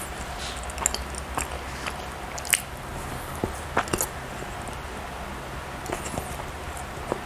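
Close-miked chewing of soft milk bread: wet mouth smacks and clicks at irregular intervals, a few sharper ones about two and a half and four seconds in, over a low steady hum.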